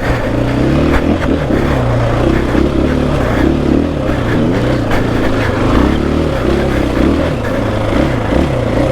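KTM 500 EXC-F four-stroke single-cylinder dirt bike engine under way, its revs rising and falling over and over as the throttle is worked on the trail.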